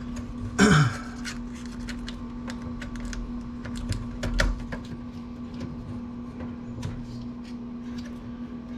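Scattered light clicks and taps of small computer parts being handled, over a steady low hum, with one louder short sound about two-thirds of a second in.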